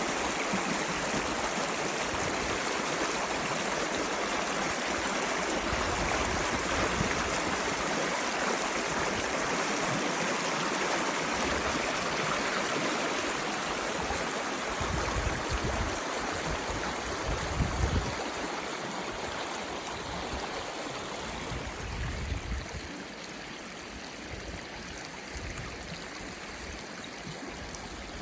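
Mountain river flowing: a steady rush of water that drops a little in level about two-thirds of the way through, with a few brief low rumbles in the middle.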